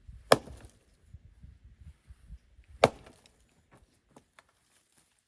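An axe strikes firewood logs twice, about two and a half seconds apart. Each blow is a sharp crack as the wood splits, loud enough to sound like a gunshot.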